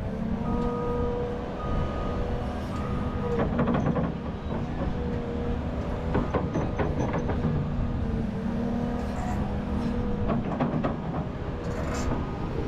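A large Volvo 550 hydraulic excavator working: a steady low engine drone with a held hydraulic whine. Several bursts of clanking and rattling come in about four times.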